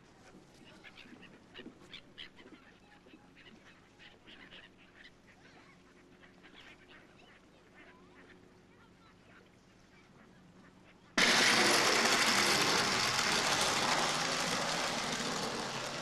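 Birds calling faintly and sporadically. About eleven seconds in, a loud rushing noise starts suddenly and then slowly fades.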